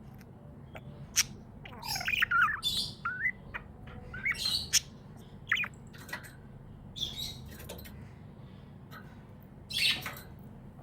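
Pet budgerigars (budgies) chirping and warbling in short, irregular bursts of high chirps and quick warbled notes, busiest in the first half and again near the end.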